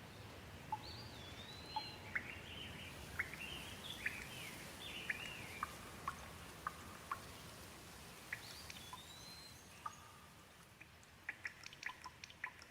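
Gentle rain falling steadily, faint, with a bird calling in short gliding chirps through the first few seconds and again briefly in the middle. Near the end the rain haze drops and a quick run of sharp dripping ticks starts.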